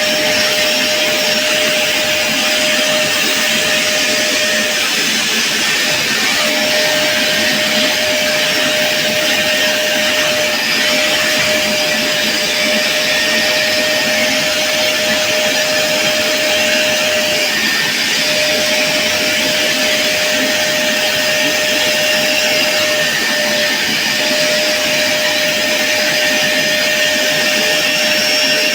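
Vacuum cleaner motor running steadily: a continuous rush of air with a steady whine that drops out briefly a few times.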